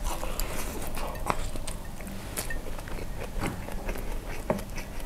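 Close-miked chewing of a mouthful of kimchi fried rice: soft, irregular wet smacks and clicks from the mouth.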